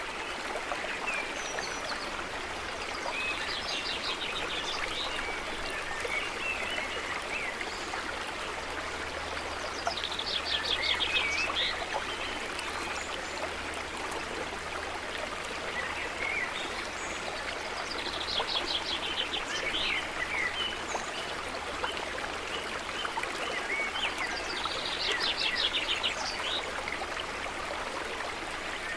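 Stream running steadily, with a songbird singing a short, quick trilled phrase four times, about every seven seconds.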